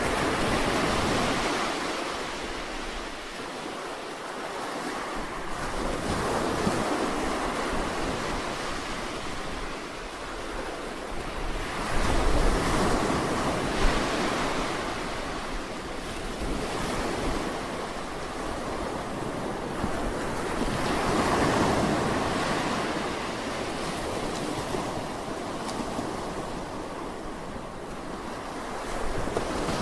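Sea waves breaking and washing up the shore, the surf swelling and falling back every several seconds, with a sharper crash about halfway through.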